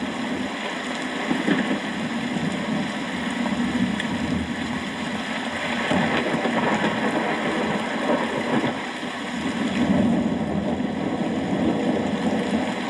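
Steady rain, a dense hiss with a low rumbling undertone that swells a little about six and ten seconds in.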